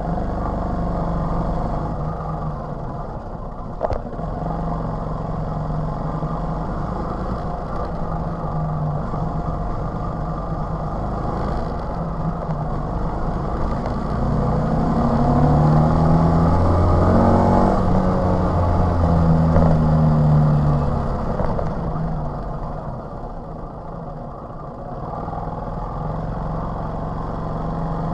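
TVS XL 100 moped's small single-cylinder engine running on the move. About halfway through it speeds up, its pitch and loudness rising for several seconds, then it eases off and gets quieter.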